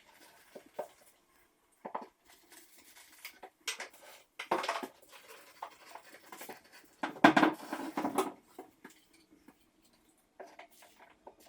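Intermittent knocks, taps, scraping and rustling from tools and materials being handled during hands-on work. The clatter is loudest in two clusters, about four and a half seconds in and again around seven to eight seconds.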